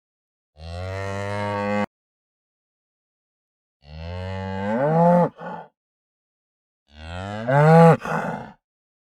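A domestic cow mooing three times with dead silence between the calls. The first moo is low and level; the second and third rise in pitch toward their ends.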